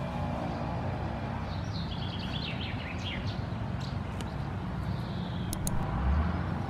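A small bird chirping a quick run of short falling notes about two seconds in, over a steady low background rumble, with a few sharp clicks near the end.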